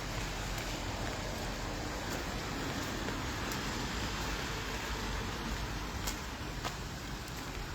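Steady outdoor hiss with a vehicle passing by, its tyre and engine noise swelling and fading over a few seconds near the middle, and a few faint clicks near the end.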